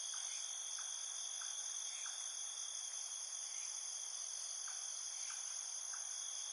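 Steady high-pitched chorus of insects trilling, with faint scattered chirps beneath.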